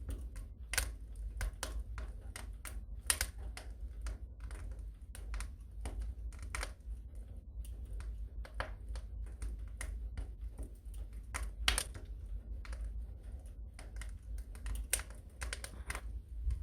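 Wood fire in a fireplace crackling: irregular clicks and pops, a few louder than the rest, over a low steady rumble of the flames.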